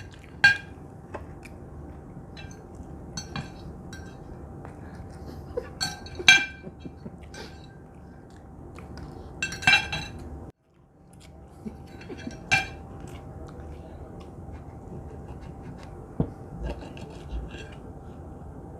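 Metal cutlery clinking and scraping on plates as people cut and eat steak. A few sharp ringing clinks stand out among lighter ticks, over a faint steady hum.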